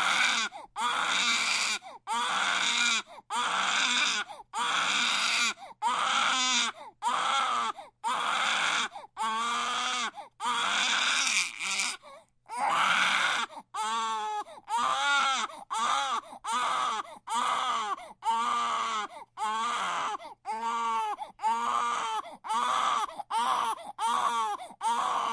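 Baby crying hard: a string of separate wails, each under a second long with a short breath between, the pitch arching up and down. A longer wail comes about halfway through, and after it the cries come quicker and more wavering.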